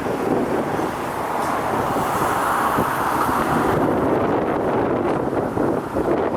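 Wind buffeting the microphone over a steady rushing noise, which swells briefly in the middle.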